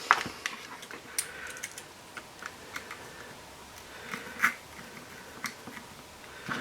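Scattered small clicks and taps of plastic parts and a small screwdriver being handled while a spur gear cover is fitted to an RC car. The sharpest clicks come right at the start and about four and a half seconds in.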